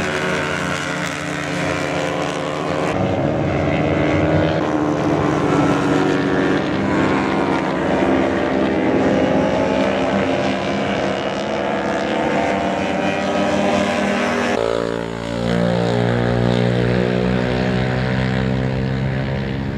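Racing motorcycle engines running at high revs, their pitch rising and falling as the riders accelerate and shift. The sound changes abruptly about 3 seconds in and again near 15 seconds.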